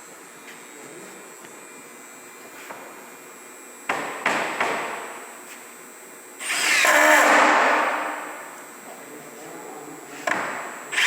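A power driver driving screws into plywood. There are two short bursts about four seconds in, a longer run of about a second and a half in the middle, and two more short bursts near the end.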